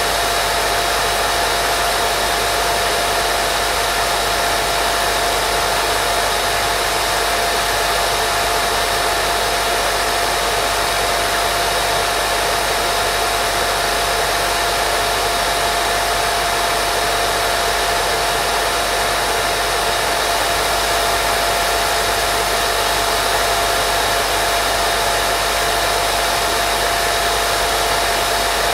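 Steady, unbroken white noise used as a baby sleep sound, with a thin steady tone running through it.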